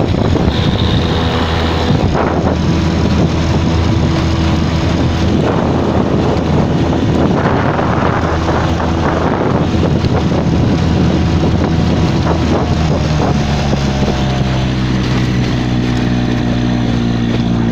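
Suzuki 4 hp outboard motor running steadily, pushing a small boat along, with water and wind noise on the microphone. The engine tone settles and grows clearer in the last few seconds.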